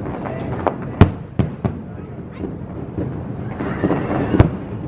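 Aerial fireworks shells bursting: several sharp booms at irregular intervals, the loudest about a second in and another just before the end.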